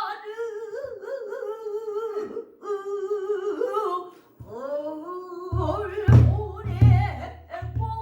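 Pansori singing: one voice draws out long sung notes with a wide, wavering vibrato, sliding and bending the pitch. From about five and a half seconds in, the buk barrel drum joins with several deep strokes.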